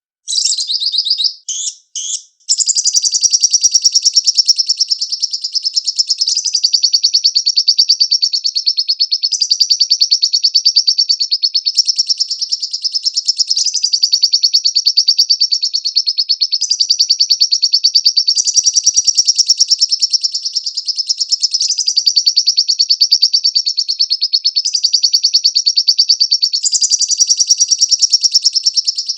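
Lovebird singing: a few short chattering bursts, then a long, very rapid, unbroken high chattering trill whose pitch steps up and down every few seconds.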